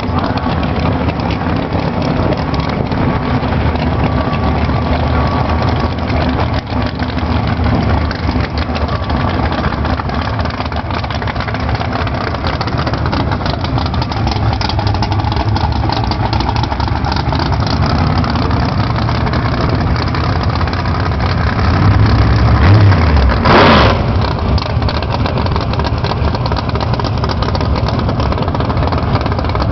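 Turbocharged drag race car engine idling loud and lumpy. About 22 seconds in it revs up, and a short burst of noise follows before it settles back to idle.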